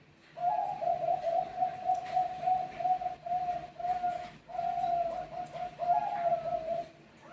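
Bangkok-strain zebra doves (perkutut) cooing: a long, unbroken run of short, rapid coo notes, about three a second, starting about half a second in and stopping just before the end.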